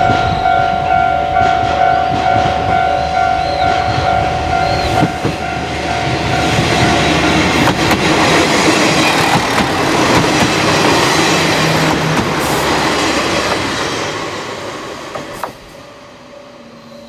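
Level-crossing warning bell ringing in a steady repeating pattern, with a KiHa 40-series diesel railcar's engine and wheels growing loud over it from about six seconds in, then fading away near the end.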